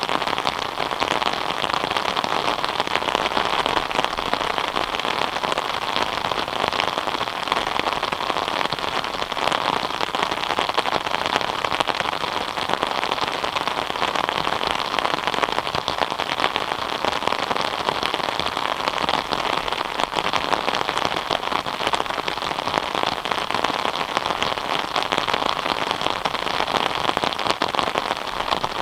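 Steady rain falling, a dense even patter of drops on a surface without let-up.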